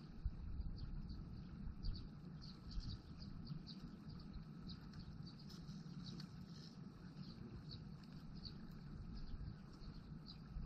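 Outdoor ambience of small birds chirping: short, high chirps repeating irregularly, over a steady low rumble.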